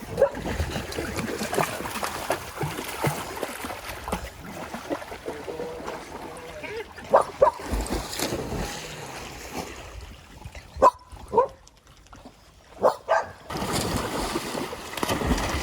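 Water splashing and lapping in a swimming pool as dogs swim, with a dog making a few short sounds about halfway through and again a little later.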